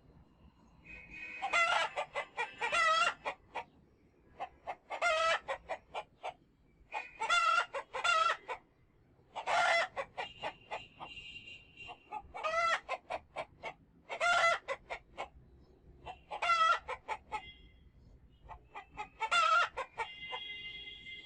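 Domestic chickens calling, loud pulsing calls repeated about every two seconds.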